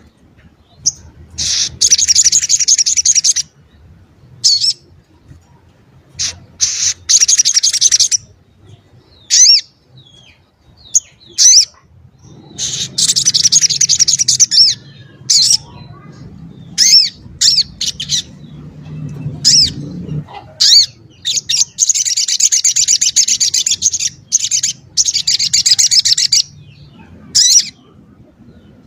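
Little spiderhunter (sogok ontong) singing: long runs of rapid, sharp, high notes lasting a few seconds each, broken by short single sharp calls. The song is dense and varied, which is why keepers use it as a master song to teach other songbirds.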